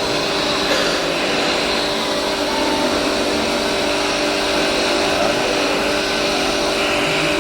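Steady mechanical running noise with a constant low hum, from radio-controlled model construction machines at work.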